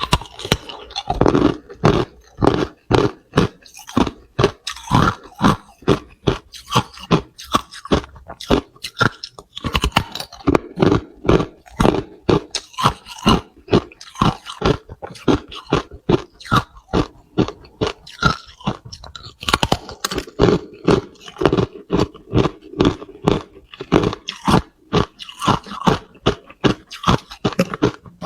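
Hard clear ice being bitten and chewed close to the microphone: continuous sharp crunching and cracking, with loud crunches about twice a second.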